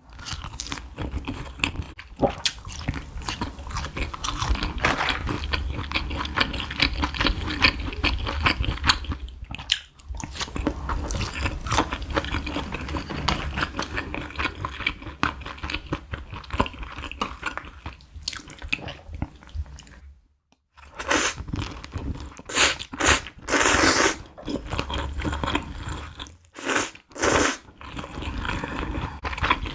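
Close-miked mukbang eating of McDonald's fast food: repeated crunchy bites and chewing, with brief pauses about ten and twenty seconds in, and louder crunches after the second pause.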